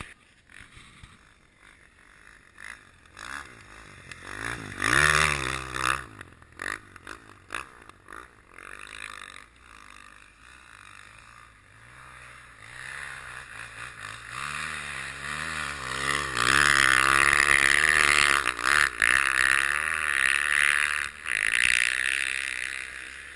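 Dirt bike engine revving up and down, its pitch wavering with the throttle, with a short loud burst about five seconds in and the loudest stretch from about sixteen to twenty-one seconds in.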